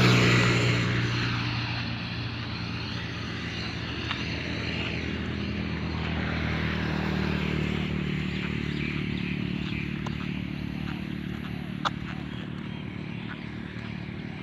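A motor vehicle engine passes close by at the start and fades away over a couple of seconds, leaving a steady engine hum. A single sharp click about twelve seconds in.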